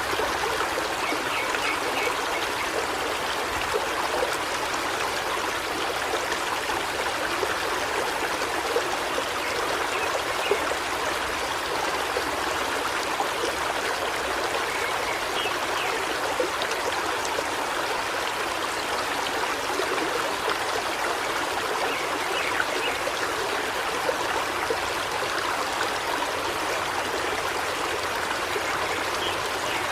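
River water flowing steadily in an even rushing hiss.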